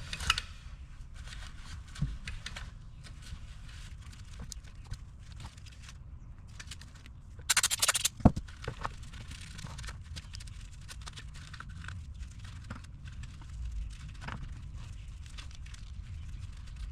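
A short hiss from an aerosol can of throttle body cleaner spraying, about halfway through, followed at once by a sharp knock. Scattered small clicks and knocks run on around it.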